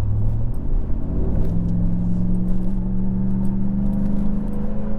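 A 5.7-litre Hemi V8 in a Ram 1500 pickup, breathing through a Carven Competitor Series cat-back exhaust, accelerating under throttle. The revs climb sharply about a second in, then hold and rise slowly as the truck gathers speed.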